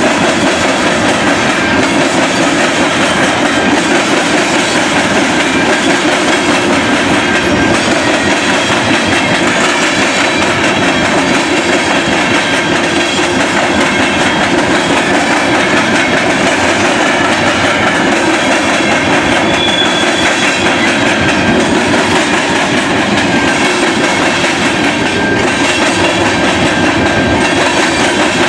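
Freight train cars rolling past at close range, a steady loud clatter of steel wheels on the rails that does not let up.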